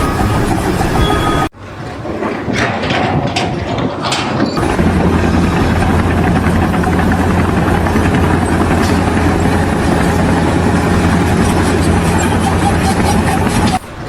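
An engine running steadily: a low, even hum sets in about four and a half seconds in, after a few knocks.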